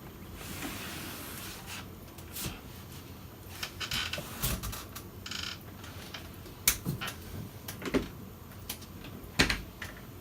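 Irregular knocks and clicks of handling, a few sharper than the rest, with a short hiss about five seconds in.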